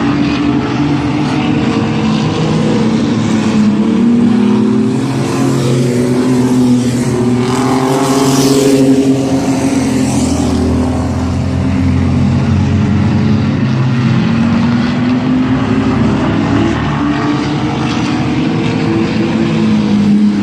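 Several mini truck race engines running around the track together, their pitch rising and falling as they go through the corners. They are loudest as the pack goes by close, about eight to nine seconds in.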